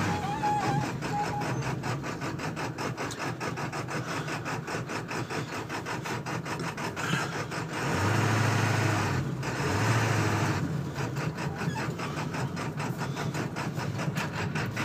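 1999 Ford F-250's 7.3-liter Power Stroke V8 turbo diesel heard from inside the cab at low speed, running with a fast, even clatter and a low hum that swells twice, around eight and ten seconds in. The engine runs rough at idle and below about 40 mph, which the previous owner put down to a burnt-up valve cover gasket wiring harness sending the signal to the wrong injector.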